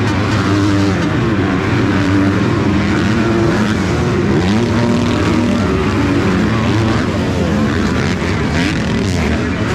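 Several motocross bikes racing, their engines revving up and dropping back over and over as the riders accelerate, shift and back off through the track.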